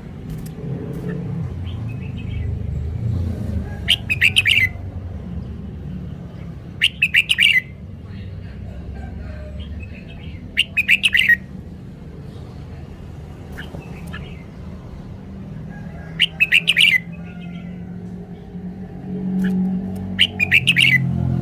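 Red-whiskered bulbul singing: five short, quick warbled phrases, each under a second long, spaced a few seconds apart, over a steady low rumble.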